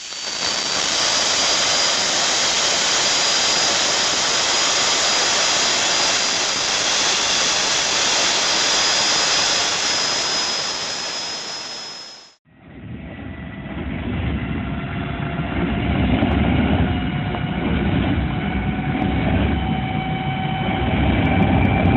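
Jet engine running: a dense rushing noise with a steady high whine that creeps up slightly in pitch. About twelve seconds in it cuts abruptly to another engine, a deeper rumble with a whine that slowly rises as it gets louder.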